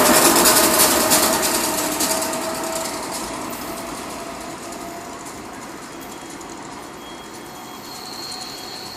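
SEPTA Regional Rail electric train pulling away, its rattle and wheel clatter fading steadily into the distance. A faint high whine comes in near the end.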